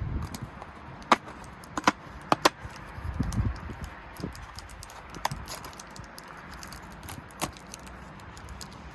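Sharp clicks and taps of small plastic pieces being handled, bunched together in the first few seconds and then spaced out, with a dull low thump about three seconds in.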